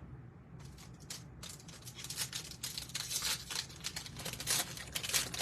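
Trading-card pack wrapper crinkling and tearing as a pack is opened: quiet at first, then a dense run of sharp rustles from about a second and a half in.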